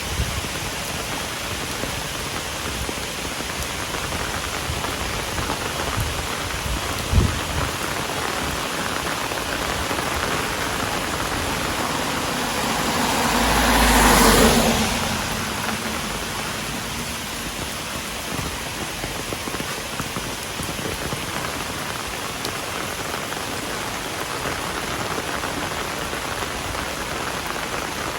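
Heavy rain falling steadily. A single sharp knock comes about seven seconds in, and midway a loud whooshing swell builds and fades over a few seconds.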